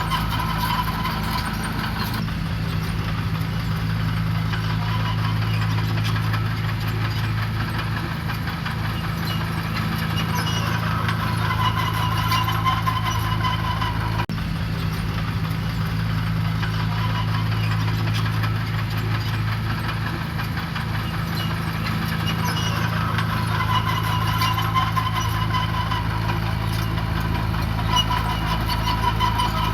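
Diesel engine of heavy road-building machinery running steadily, with a low even engine note throughout.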